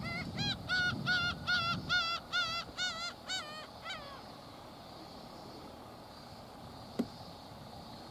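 A bird calling in a rapid run of about a dozen short wavering notes, dying away about four seconds in. A single sharp tap follows about seven seconds in.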